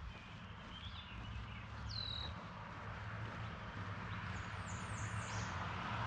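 Wild birds calling: a single down-slurred whistle about two seconds in, and a quick run of four high, falling notes near the end. Under them is a steady low hum and a background rush that slowly grows louder.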